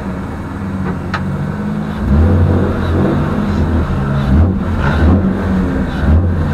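Drift car's engine heard from inside the cabin, running steadily, then revved in repeated bursts from about two seconds in.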